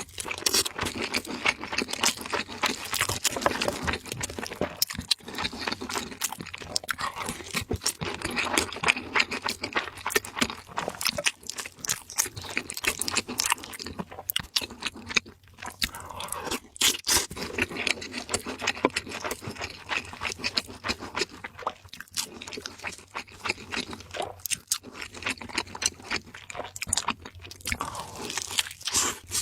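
Close-miked eating: crunchy chewing and biting, with scraping of a utensil against a dish, in quick irregular crackles throughout.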